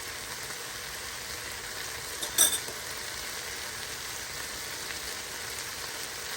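Chicken pieces sizzling steadily in a frying pan over a high gas flame, the meat cooked through and its water cooked off. One sharp clink about two and a half seconds in.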